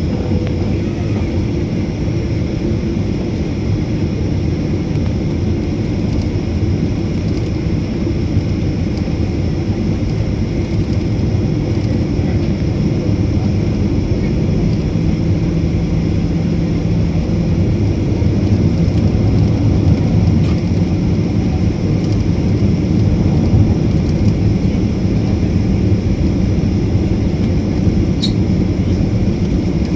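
Jet airliner heard from inside the passenger cabin: a steady, loud rumble of the engines and airframe as the plane moves on the ground, growing slightly louder about two-thirds of the way in.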